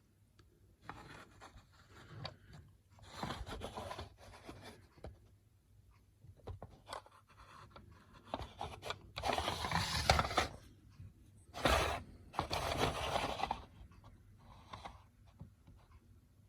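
Irregular handling noise: several bursts of scraping and rubbing, the loudest a run of them about halfway through, with a sharp knock near the middle.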